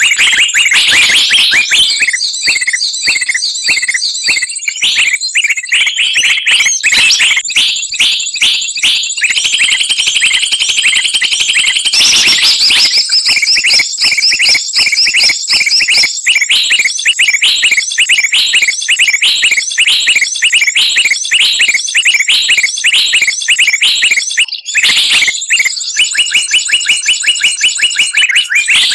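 Busy chorus of many small songbirds chirping and trilling at once, rapid high notes repeating several times a second: a bird-trapping lure call made to draw birds down.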